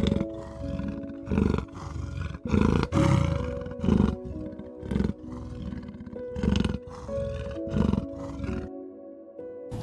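Leopard giving its rasping sawing call: a series of about ten hoarse, coughing strokes roughly a second apart, which stop about a second before the end, over soft background music.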